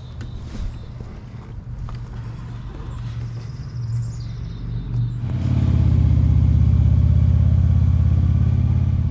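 Motorcycle engine running, with a steady low pulse that becomes much louder about five seconds in and stays loud.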